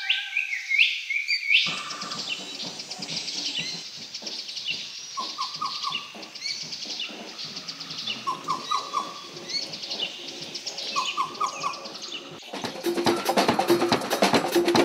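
Birds chirping and calling: a dense mix of short rising and falling chirps, with repeated groups of three or four quick falling notes. Rhythmic music comes back in near the end.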